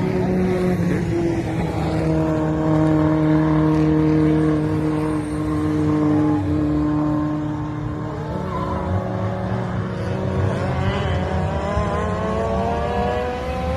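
Turbocharged Nissan SR20DET four-cylinder in a Toyota Celica TA22 racing on track: it holds high, steady revs that ease slightly, drops off about eight seconds in, then revs up again steadily toward the end.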